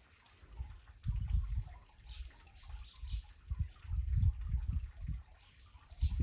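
An insect chirping steadily in a high-pitched, evenly pulsed rhythm of about two to three pulses a second, over uneven low rumbles that come and go.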